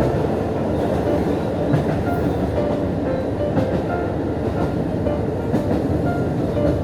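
KiHa 150 diesel railcar running on the rails, heard from inside the car: a steady rumble with occasional wheel clicks over the track.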